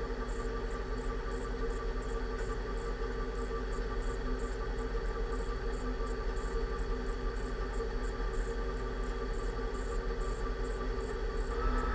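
2006 Range Rover Sport's rebuilt differential and drivetrain while driving: a steady whine of several fixed tones over a low rumble, with a faint rapid high ticking. The owner still finds it loud and suspects the pinion bearing preload was set too tight.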